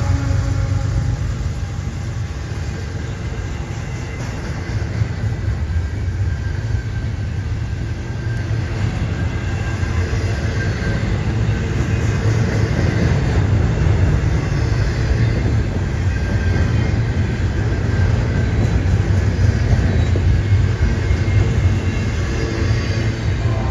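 Train passing close by: a steady heavy rumble of wheels and cars on the rails, with faint high whines coming and going above it.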